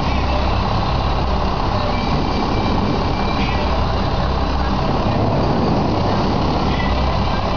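Steady vehicle noise: a low rumble with an even hiss over it, as from a motor vehicle on the move.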